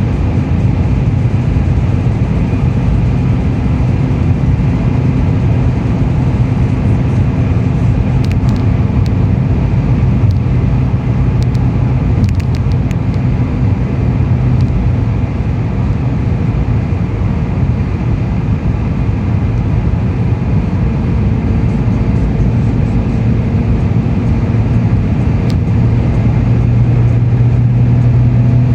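Fiat Stilo's 1.9 JTDm 16v four-cylinder turbodiesel, fitted with a GTB2056V turbo, driving along with a steady engine drone over loud road and tyre noise. The drone shifts slightly and grows a little stronger near the end.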